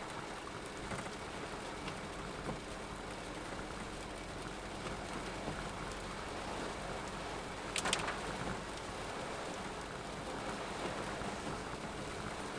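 Heavy rain falling, a steady even hiss, with one sharp click about eight seconds in.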